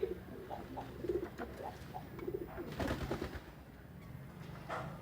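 Domestic pigeon cooing in a run of short, low coos over the first three seconds, with a few brief clattering knocks about three seconds in.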